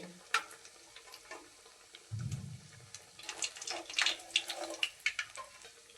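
Vermicelli-coated snacks deep-frying in oil on a low flame, with scattered crackles and pops and a dull low knock about two seconds in.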